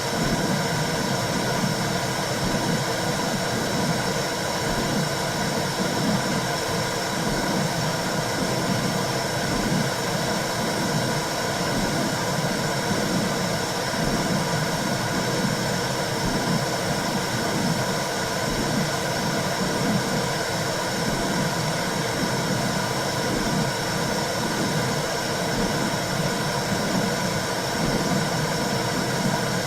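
Womb sound for soothing a newborn: a steady rushing white-noise whoosh, with a low swell that pulses about once a second.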